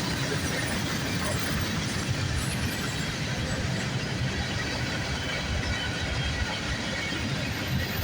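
Freight train cars rolling past at close range: a steady rumble and rattle of steel wheels on the rails.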